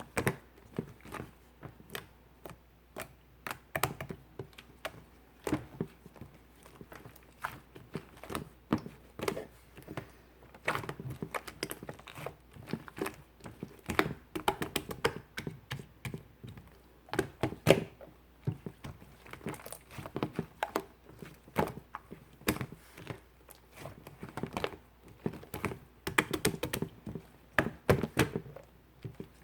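Hands kneading and folding slime with clay mixed into it, making an irregular run of sticky clicks, pops and squishes.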